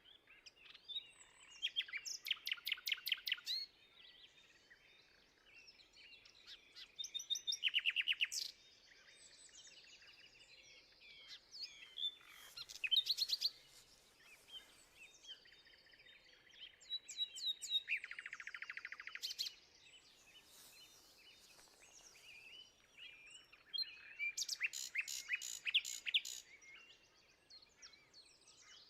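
A songbird singing outdoors, repeating a short song of fast trilled notes every five or six seconds, with fainter chirps from other birds in between.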